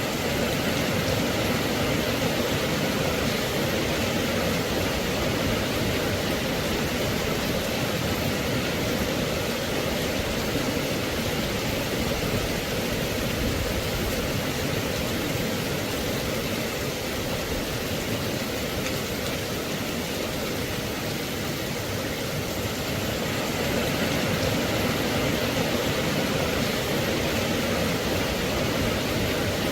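Steady rain: an even, unbroken hiss with no single drops, thunder or other events standing out.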